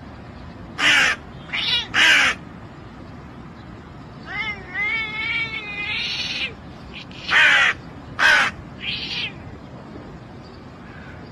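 Animal cries: three short, harsh calls in the first two seconds and three more near the end, with a wavering, warbling call of about two seconds in between.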